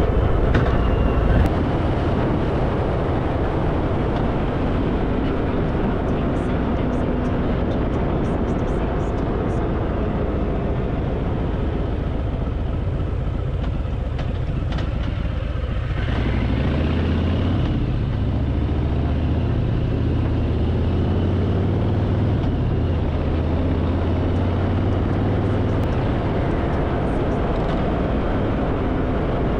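Harley-Davidson Fat Boy's V-twin engine running steadily at road speed under a constant rush of wind noise. About halfway through, the engine note shifts and gets a little louder.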